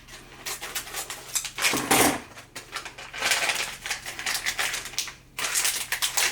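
Plastic wrapper of a dishwasher cleaner tablet crinkling and tearing open in several spells of rapid crackle, with a duller knock about two seconds in.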